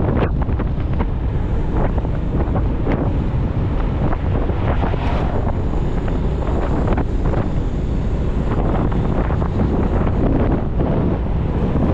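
Wind rushing over the microphone of a moving motorcycle, with engine and road noise underneath.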